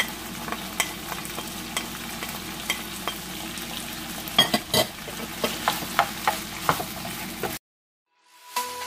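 Onions, chicken and garlic sizzling in oil in a frying pan, with a spoon clicking and scraping against the pan as it is stirred. It breaks off suddenly near the end.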